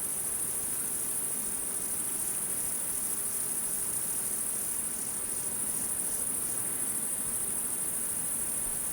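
Steady, high-pitched trill of insects, a cricket-like chorus that runs without a break.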